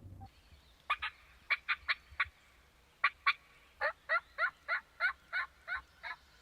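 Wild turkey yelping: short notes in small groups, then a steady run of about nine notes near the end.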